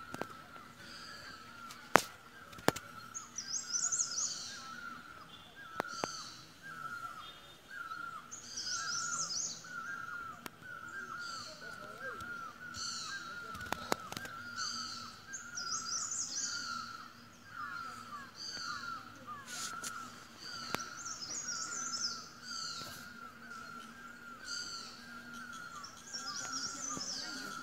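Wild birds calling: a steady run of short, repeated mid-pitched calls, with bursts of higher chirping every second or two. A few sharp clicks, the loudest about two seconds in.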